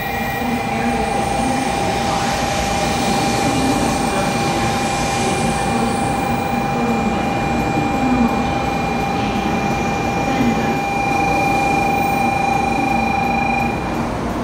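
Shinkansen bullet train running alongside an underground station platform, a steady rumble of its carriages going by. A steady high tone sounds with it and cuts off near the end.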